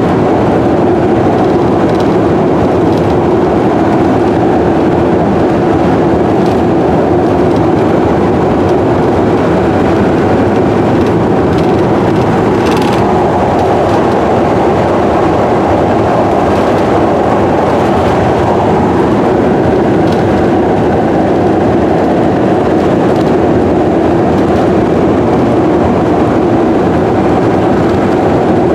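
Steady drone of a vehicle driving at highway speed: engine and road noise, with no change in speed.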